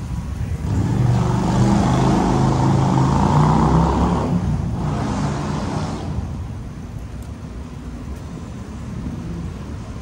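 A motor vehicle passing close by. Its engine and tyre noise swell for a few seconds and then fade, leaving a steady low traffic rumble.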